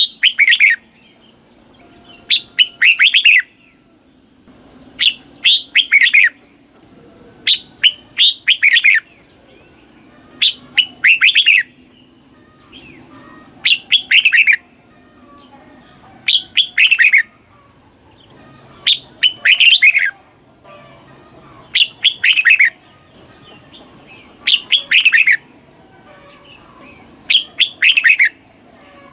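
Red-whiskered bulbul singing short, clear phrases of several quick whistled notes, about eleven of them, repeated every two to three seconds.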